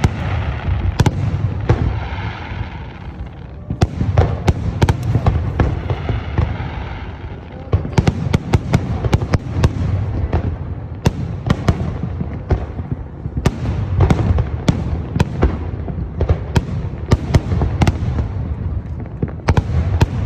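Fireworks display: a running series of sharp bangs and cracks over a low rumble. The bangs come faster, in rapid volleys, from about eight seconds in.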